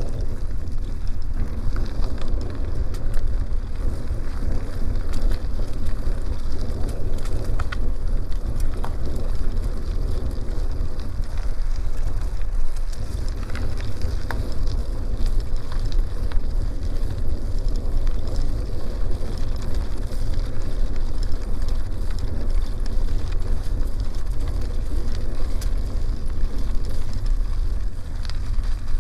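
Wind rumbling steadily on the microphone over the crunch and crackle of bicycle tyres rolling on a dirt road.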